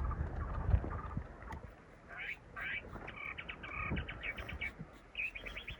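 Small birds chirping, in short rising-and-falling calls and quick trills, over a low rumble in the first second or so.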